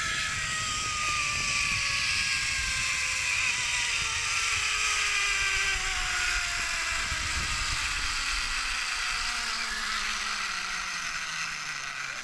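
Zipline trolley pulleys running along the steel cable with a whir that falls steadily in pitch as the rider slows, over rushing wind noise. The sound fades at the end as the trolley comes to a stop short of the platform, braked too early.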